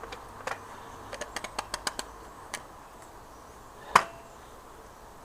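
Light clicks and taps from parts being handled: a quick run of about eight small clicks, then one louder, sharp knock about four seconds in.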